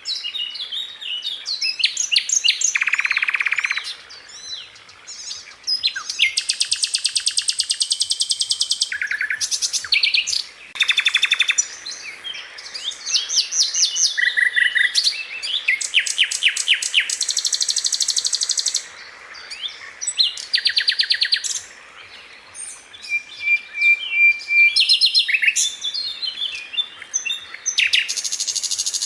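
Sikatan londo flycatcher singing: fast rolling trills of rapidly repeated high notes, alternating with sharp chips and short buzzy rattles, with a brief steady whistle late on.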